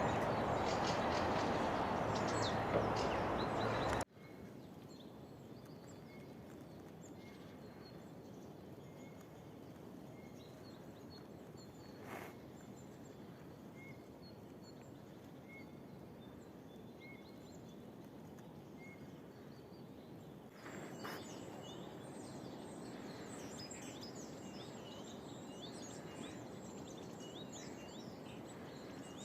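Small songbirds calling in a spring forest. Up to about four seconds in there is a loud, steady rushing noise that stops abruptly. After that, one bird repeats a short high call roughly every three-quarters of a second for about twelve seconds. Near the end, many quick high chirps overlap.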